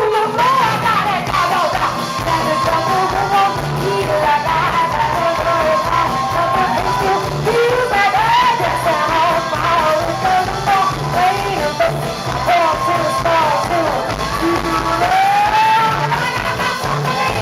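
Live band music with singing: a wavering melody over a pulsing bass beat, played loud throughout.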